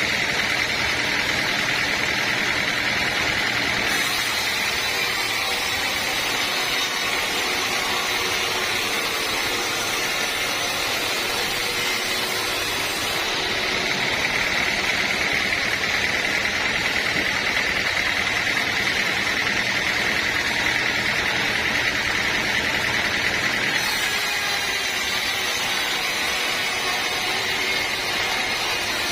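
Sawmill saw running steadily through a teak log, a continuous mechanical noise with a high whine. The sound changes abruptly a few times.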